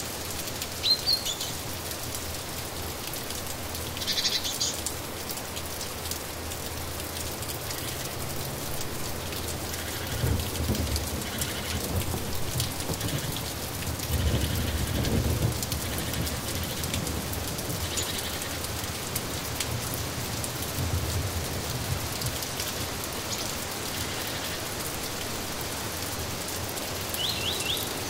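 Steady rainfall with a few short bird chirps, one about a second in and others near the end. Several low rumbles come and go in the middle, like distant thunder.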